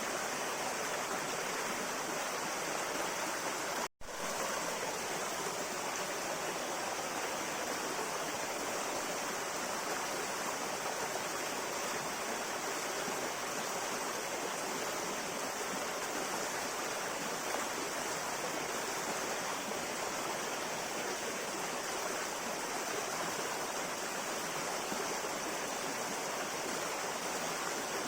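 River water flowing steadily over its bed, an even rushing sound. It cuts out for an instant about four seconds in.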